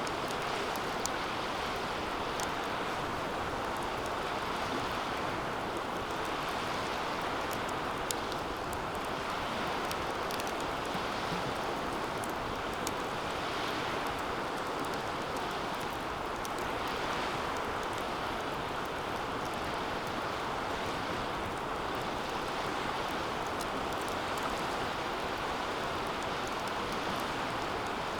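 Wood fire burning in a DOD Mecha-Moe Fire 2 metal fire pit: a steady rushing of flames that swells and eases every second or two, with scattered sharp crackles and pops.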